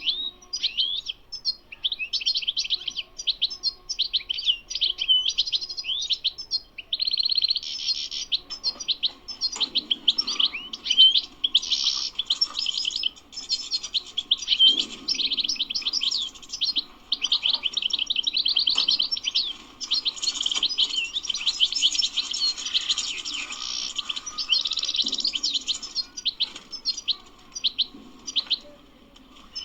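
European goldfinch singing a long, continuous song of rapid twittering notes and trills, high-pitched and almost unbroken.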